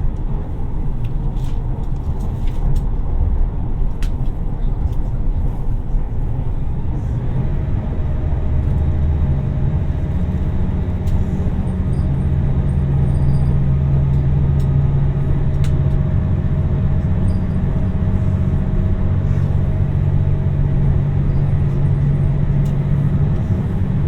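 Inside a JR Shikoku 2700 series diesel express railcar under way: a steady rumble of wheels on the rails and the diesel engine, with a few faint clicks. About seven seconds in, a steady engine hum with a fainter higher tone comes up and holds.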